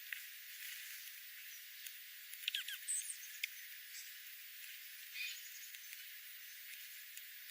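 Small birds giving a few short, high chirps, bunched about two and a half to three and a half seconds in, with another faint one near five seconds, over a steady hiss.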